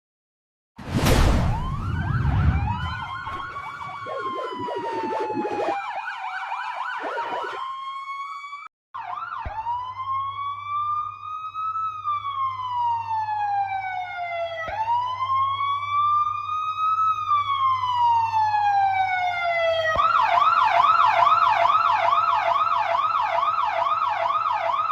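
Police siren effects: after a loud burst about a second in, a wail falls in pitch and breaks into a fast warble, then cuts out briefly. It resumes as a slow wail rising and falling twice over a low hum, then switches about twenty seconds in to a rapid yelp of quick up-and-down sweeps, a few each second.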